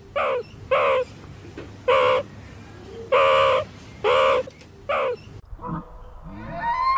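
Goose honking: six loud, evenly pitched honks, each dropping in pitch at its end, with one near the middle held longer.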